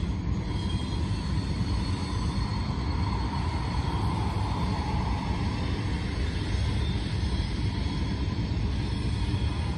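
Norfolk Southern freight train running on the grade, a steady rumble, with a faint higher-pitched sound that swells and fades around the middle.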